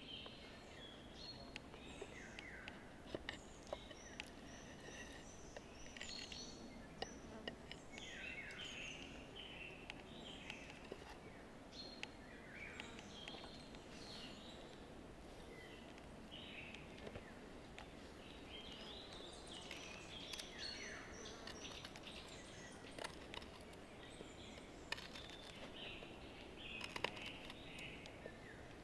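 Several songbirds singing and calling in a forest, short chirps and warbles throughout over a low steady background hum, with scattered sharp small clicks.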